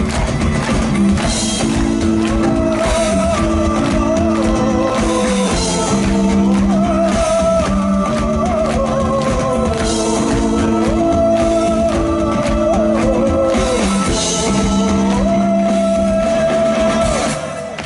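Rock band playing live: drum kit, bass and guitars, with a wavering melodic lead line over sustained low chords. The music dips sharply just before the end.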